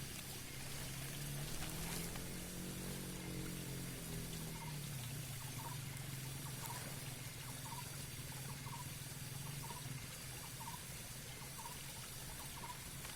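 Water pouring and trickling over a steady low motor hum that shifts in pitch briefly near the start, with short chirps about once a second from about four seconds in.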